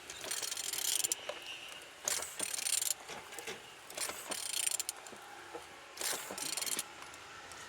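Used car engine being turned over by hand: four spells of mechanical clicking and whirring, each about a second long, about two seconds apart. It turns smoothly, a sign that the engine is free and not seized.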